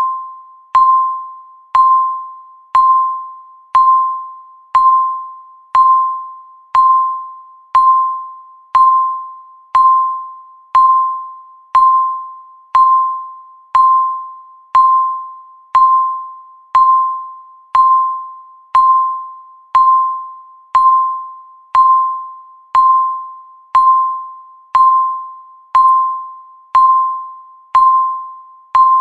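Electronic countdown-timer beep sounding once every second, each a single clear tone that starts sharply and fades away before the next.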